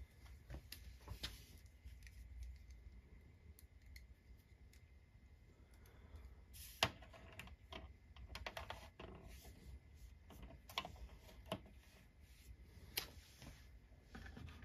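Faint, scattered clicks and taps of hard plastic toy parts being handled, with a sharper click about seven seconds in and another near the end.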